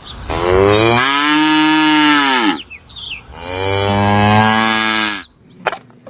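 A cow mooing twice: two long moos about a second apart, each dropping in pitch as it ends.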